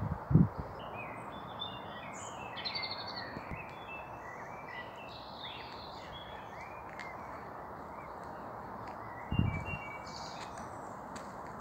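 Several birds singing and chirping in short overlapping phrases over a faint steady outdoor hiss. Two brief low thumps on the microphone, one just after the start and one about nine seconds in, are the loudest sounds.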